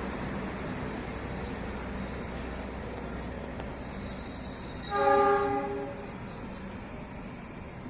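A train horn sounds one short blast of about a second, several notes at once, about five seconds in, over a steady background of running rail and traffic noise.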